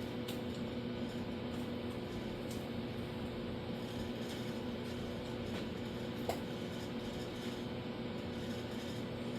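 Steady machine hum with a few fixed tones, with a few faint light clicks, one about six seconds in.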